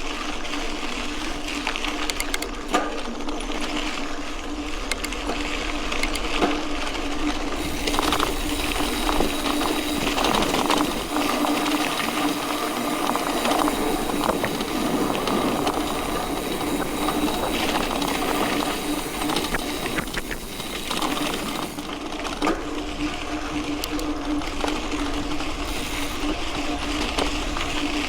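Mountain bike rolling on a dirt road: tyres on gravel and rattles and clicks from the bike, over a steady hum. The noise grows harsher and fuller for a stretch in the middle, then settles back.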